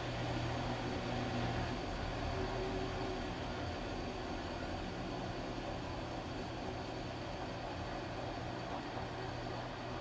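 Washing machine running with a steady low hum and rumble.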